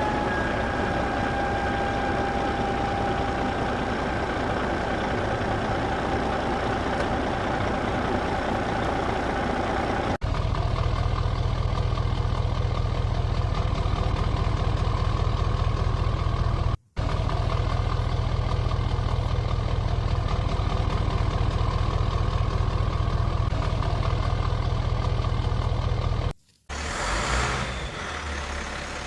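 Truck-like engine running steadily, heard in several stretches joined by abrupt cuts, each with a brief gap.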